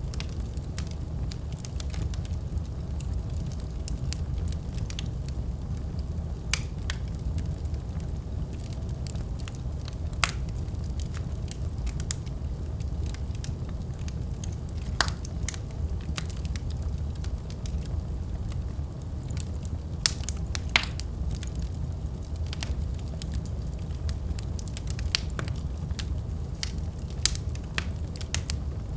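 Wood fire burning in a fireplace: a steady low rumble of the flames with irregular sharp crackles and pops of the burning logs, a few louder snaps scattered through.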